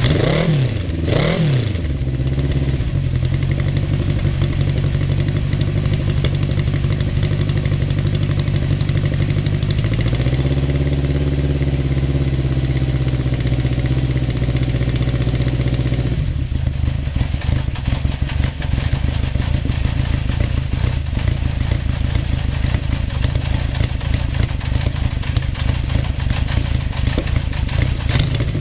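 Honda CB750 Four's air-cooled inline-four, breathing through its stock HM341 mufflers, blipped twice at the start and then left idling steadily. It is given another short blip of the throttle right at the end.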